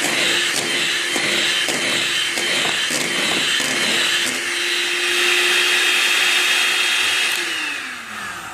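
Electric mixer running steadily, its beaters ticking against the bowl as it whisks the sugar into the sponge cake mixture, until it turns beige. Near the end it is switched off and winds down with a falling whine.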